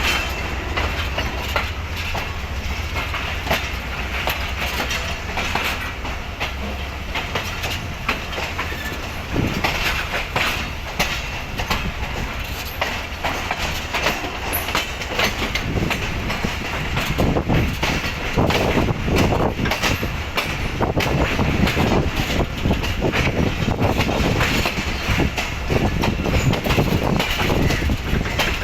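Passenger train pulling out of a station: coach wheels clattering over rail joints and points with a steady rumble, growing louder about halfway through.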